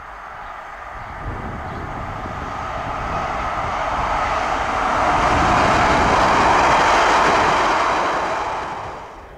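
Class 156 Sprinter diesel multiple unit approaching and passing on the main line: its engine and wheel-on-rail noise build steadily to a peak about six to seven seconds in, then fall away near the end.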